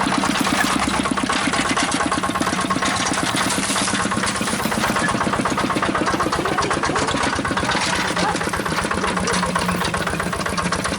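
Small engine running steadily with a rapid, even chugging beat.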